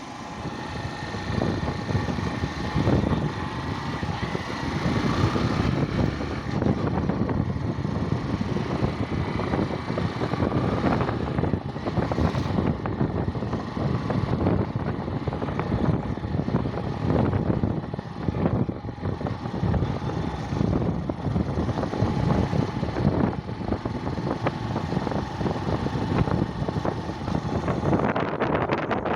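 Wind buffeting the microphone during a motorcycle ride, a steady low rumble with the engine and road noise underneath.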